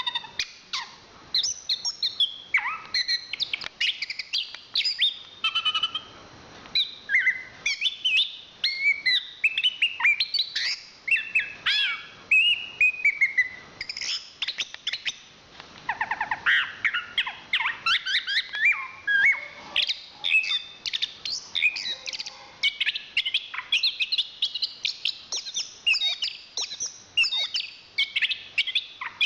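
Chestnut-capped thrush (anis kembang, Zoothera interpres) singing a continuous, varied song of rapid whistled and chirping phrases, with short pauses between them.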